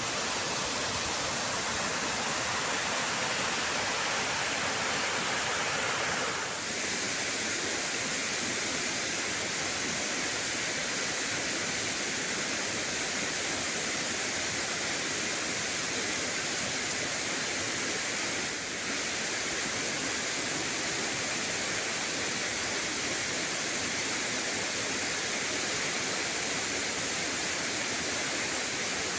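Steady rushing of running water, a mountain stream or waterfall, with no change in rhythm. It breaks very briefly about six seconds in and again about two-thirds of the way through, where the tone shifts slightly.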